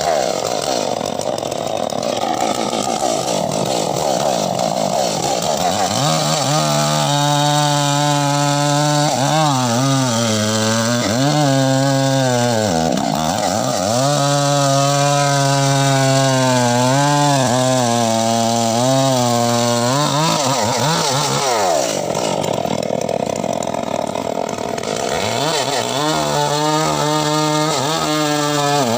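Chainsaw running and cutting wood into mahogany. Its engine note sags and recovers again and again under load, drops away about three quarters of the way through, then picks up again near the end.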